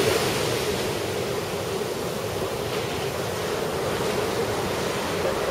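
Steady rush of ocean surf breaking on a beach under a typhoon swell.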